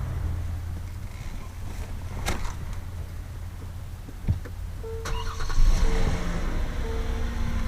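Inside a 2014 Hyundai Genesis: a steady low engine rumble with a few sharp clicks, then from about five seconds in a repeating chime tone as the car gets louder.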